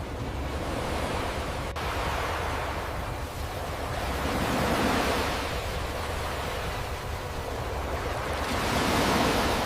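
Surf washing on a beach, a steady rush of waves that swells and eases about every four seconds.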